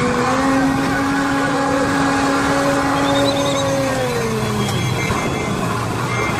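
A vehicle engine running at a steady pitch with a lot of background noise, its note dropping about four and a half seconds in as it slows.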